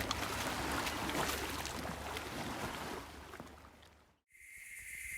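Lake water lapping, a steady wash with a low rumble, fading out over the last two seconds of the lake ambience. Just after it dies away, jungle ambience fades in with a steady high insect buzz.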